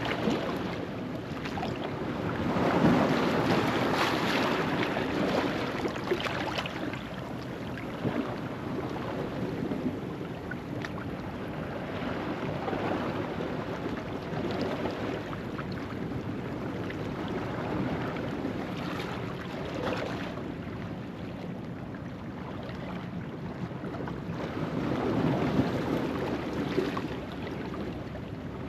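Ocean waves washing onto a rocky shoreline at low tide: a steady wash of surf that swells louder about three seconds in and again near the end, with small splashes.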